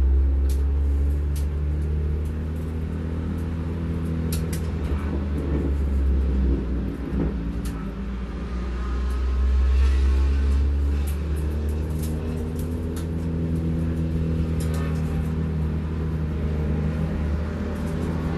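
Race car engine running at low revs while the car rolls slowly, heard from inside the cabin as a steady low drone. There are a few light clicks and rattles.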